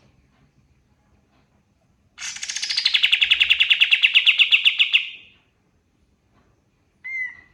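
Kapas tembak singing: a rapid trill of about ten notes a second lasting about three seconds, starting high and settling lower, then one short separate note near the end.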